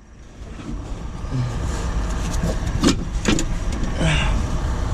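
Steady low rumble of a motor vehicle, with a few short sharp clinks and knocks.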